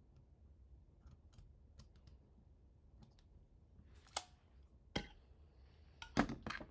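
Small parts clicking and tapping as they are handled during a 3D printer assembly: a few faint ticks, then two sharp clicks about four and five seconds in and a quick cluster of clicks near the end.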